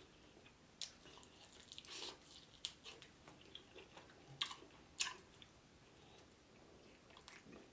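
Faint chewing and biting on fried chicken, with a few soft crunches and mouth clicks scattered through, quiet for a stretch near the end.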